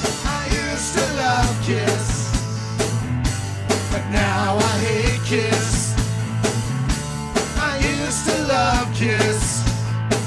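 Punk rock band playing a loud instrumental intro: a drum kit beat under a steady bass line and a lead melody that bends up and down.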